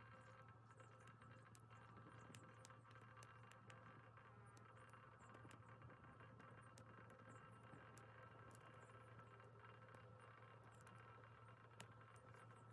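Small wood fire in a Sierra stove crackling faintly, with scattered sharp ticks and pops over a low steady hum.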